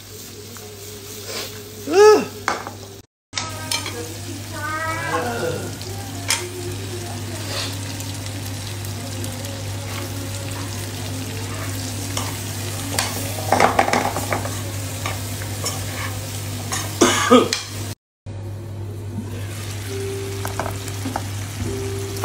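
Beef strips sizzling and frying in a non-stick wok as a spatula stirs them, with a few clatters of the spatula against the pan. Later chopped onions and peppers go in and fry with the meat.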